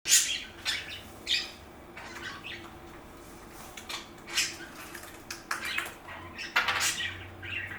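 Pet bird sounds: a string of short, scratchy chirps and rustles at uneven intervals, over a faint steady hum.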